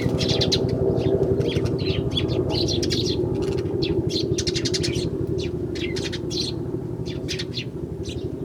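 Eurasian tree sparrows chirping, many short high chirps in quick succession, over a steady low rumble.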